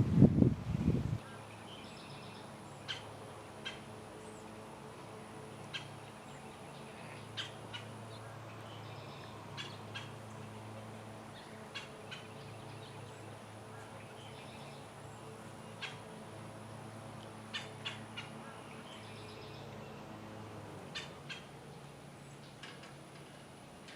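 Wild birds chirping, short high calls every second or two, over a steady low hum. A brief low rumble at the very start is the loudest thing.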